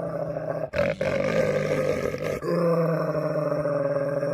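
A dog growling in long, drawn-out, steady-pitched rumbles: a brief break under a second in, a rougher, noisier stretch, then another long even growl.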